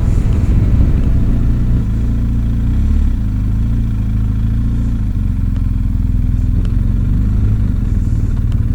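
Motorcycle engine running at a steady speed while riding, a loud, even low drone.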